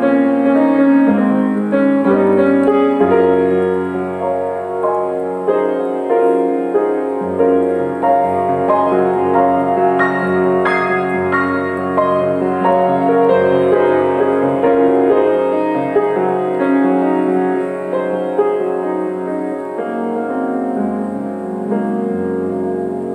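Background piano music: a steady flow of notes and chords, easing a little in loudness near the end.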